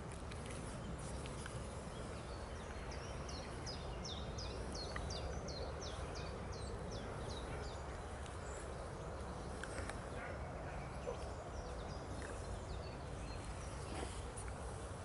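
Steady outdoor background noise. From about three seconds in, a small bird sings a run of short high chirps, about three a second, for some four seconds. A few faint clicks and rustles follow.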